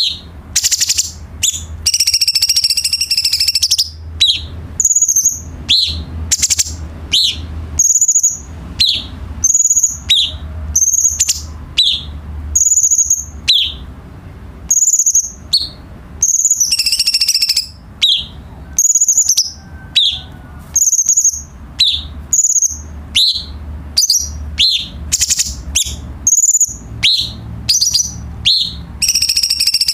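Cucak cungkok singing: a rapid run of short, high whistled notes about one or two a second, broken a few times by longer, rougher chattering phrases. A low steady hum lies underneath.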